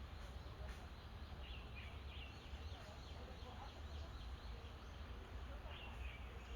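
Birds giving short chirping calls in a few scattered bouts, over a steady low rumble.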